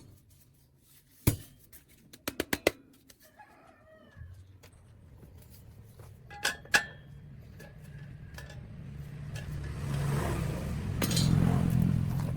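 A few sharp metallic clinks and knocks, then a low hum that grows gradually louder over several seconds.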